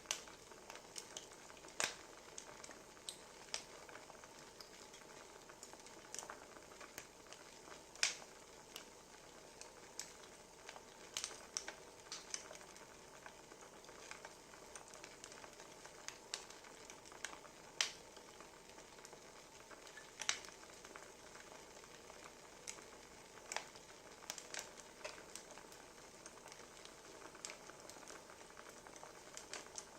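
Wood fire crackling: a soft steady hiss with irregular sharp pops of burning firewood every second or two.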